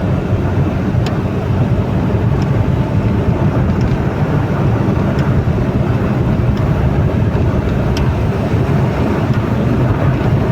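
Steady low rumble, as of a vehicle running, with a few faint ticks scattered through it.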